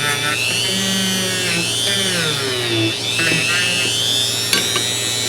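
Small rotary tool spinning a little wire wheel against a steel adjustable wrench to scrub off rust, its high whine wavering up and down as it is pressed on and eased off the metal, with a few sharp clicks near the end.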